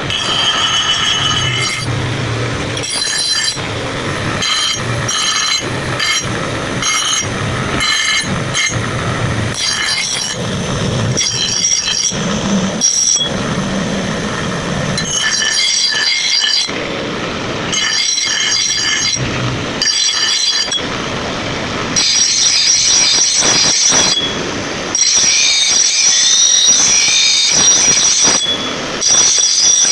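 Blacksmith's hammer striking steel on an anvil, a run of ringing metallic blows. Later a louder, sustained, shrill metallic squeal takes over.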